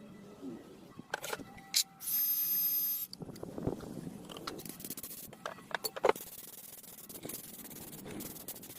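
Hand work on a motorcycle engine cylinder: a few sharp clicks, then a hiss lasting about a second, then uneven rubbing and scraping with occasional knocks.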